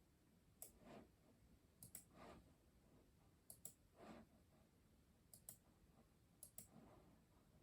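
Custom mechanical keyboard keys pressed slowly and sparsely: five faint clusters of clicks, each a sharp double click followed by a softer, duller knock, about every second and a half.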